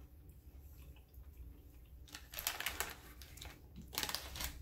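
Close-up chewing of a breaded chicken nugget: short runs of soft crunchy clicks starting about halfway in, over a faint low room hum.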